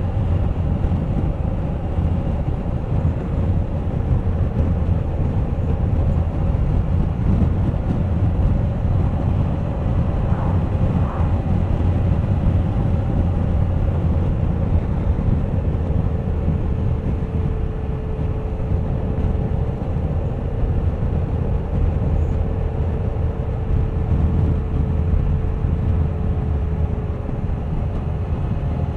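Wind rush over a camera on a moving Suzuki GSX1250FA motorcycle, with its inline-four engine running steadily underneath. The engine tone eases slightly lower in the second half.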